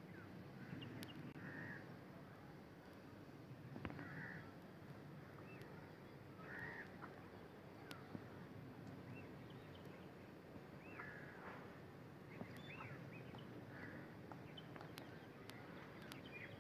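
Faint open-air background murmur with birds calling over it: a few short harsh calls a couple of seconds apart, and some thin looping chirps about two-thirds of the way through.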